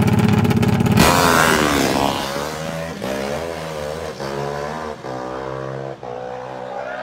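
Four-stroke single-cylinder drag bike engine (Honda Sonic 150 with a CBR fuel-injected engine) revving hard at the line, then launching about a second in and pulling away down the strip. The pitch climbs and drops at each upshift, about once a second, getting fainter as the bike runs off.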